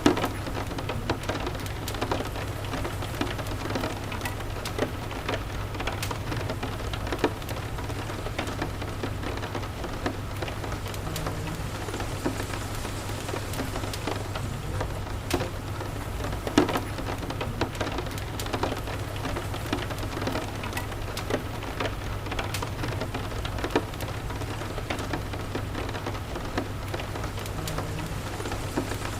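Steady rain, with frequent short sharp ticks scattered through it and a constant low rumble underneath.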